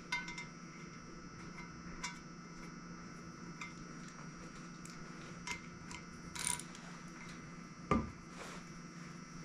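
Ratchet wrench and steel thread chaser clicking now and then as they clean the bolt-hole threads of a cast-iron Chevy 327 cylinder head, with a single thump near the end and a faint steady hum behind.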